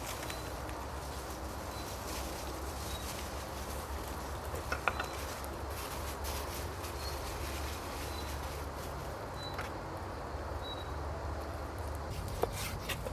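Quiet outdoor ambience with a steady low rumble, faint short high chirps every second or two, and a few sharp clicks about five seconds in and near the end.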